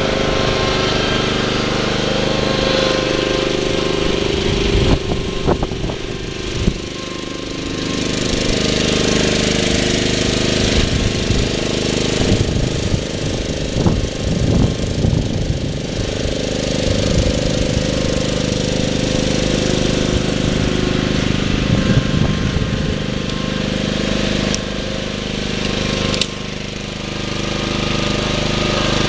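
Lawn tractor's small engine running under load while plowing snow, with stretches of rougher clattering and knocks where the engine note wavers, around five seconds in and again in the middle.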